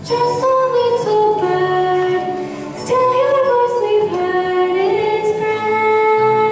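Music: a woman's voice singing a slow melody with long, wavering held notes over soft accompaniment.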